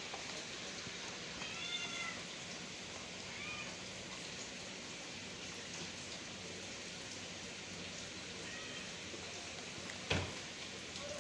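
A cat meowing twice in the first few seconds, short arched calls, over a steady hiss of rain. A single short thump about ten seconds in.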